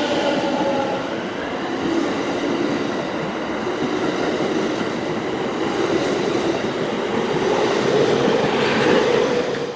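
A train running on the rails: a steady rumble of wheels and running gear that swells slightly near the end.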